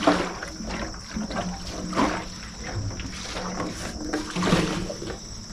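CLR rust remover sloshing inside a capped motorcycle gas tank as the tank is shaken by hand, in several surges, to scour rust from the tank's inside.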